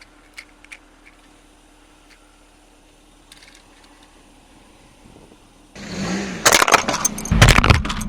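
Brittle objects cracking and crunching under a car's tyre, a rapid run of loud sharp cracks starting about six seconds in, with a low rumble of the rolling car joining near the end. Before it there are only a few faint clicks.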